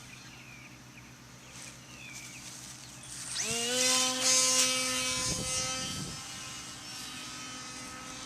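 Electric motor and propeller of a 12-inch foam RC flying-disc plane spinning up with a quick rising whine about three seconds in, then running at a steady high whine. A burst of rushing noise comes in the middle, and birds chirp faintly before the motor starts.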